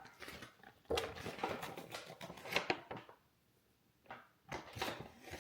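Kitchen handling sounds: a run of small clicks, taps and scrapes of ingredient containers and utensils being handled, in two bursts with a short pause between.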